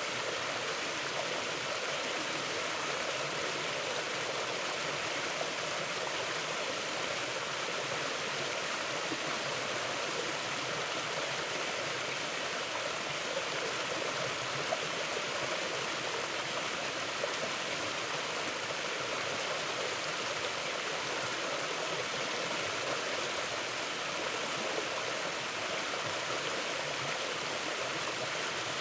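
Mountain river flowing: a steady, even rush of running water.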